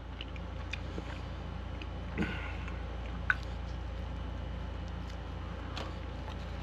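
A person chewing a mouthful of bean burrito with soft, wet mouth sounds, a brief smack about two seconds in and a sharp click about a second later, over a steady low hum.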